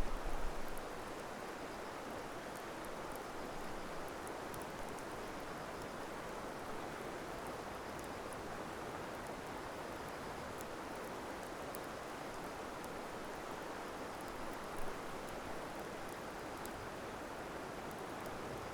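Steady rushing of flowing water, with faint scattered crackles from a wood campfire and a small knock about fifteen seconds in.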